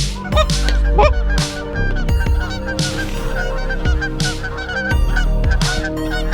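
Geese honking, many short calls overlapping, over background music with a steady deep bass and a regular hissing beat.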